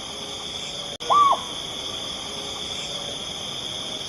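An owl gives a single short hoot about a second in, over a steady high hiss.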